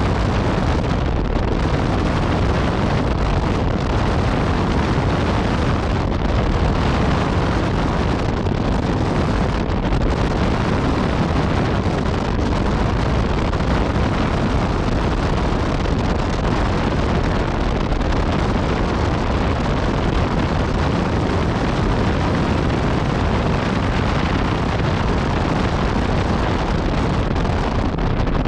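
Yamaha MT-09 Tracer's three-cylinder engine with Akrapovic exhaust running steadily under way, heavily mixed with wind rushing over the microphone.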